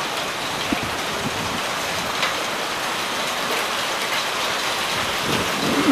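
Heavy rain pouring down steadily, with a few light ticks of drops striking nearby surfaces.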